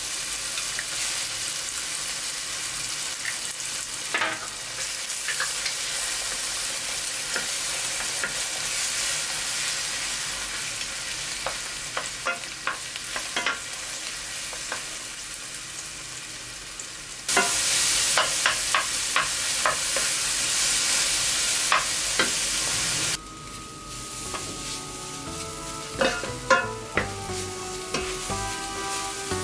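Food sizzling in a frying pan while it is stirred, with scattered light clicks and taps of a utensil against the pan. About two-thirds of the way in the sizzle suddenly gets louder for about six seconds, then drops back, and soft music comes in underneath.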